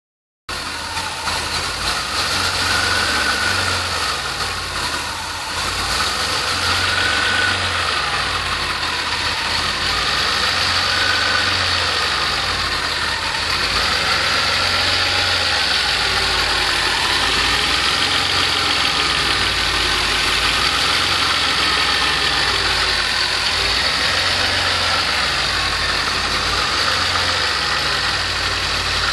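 DeLorean DMC-12's PRV V6 engine idling just after its original fuel lines were replaced. It runs rough and uneven for the first dozen seconds or so, then settles into a smooth, steady idle.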